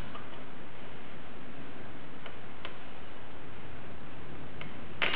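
A few light, scattered metallic clicks from bolts and hand tools being handled during assembly, over a steady background hiss, with a louder clatter of clicks near the end.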